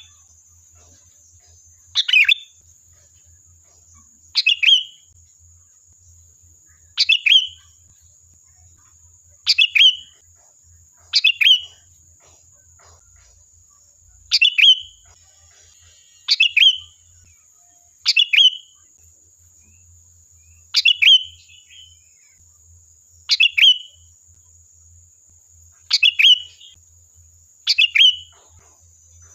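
Sooty-headed bulbul (kutilang) calling: a short, loud two-note phrase repeated about every two seconds, a dozen times. A faint steady high-pitched tone runs underneath.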